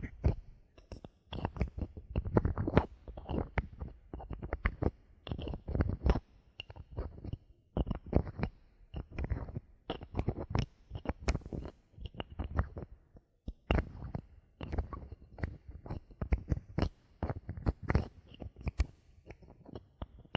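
Bottle caps being handled: a dense, irregular run of sharp clicks and taps with short pauses between them.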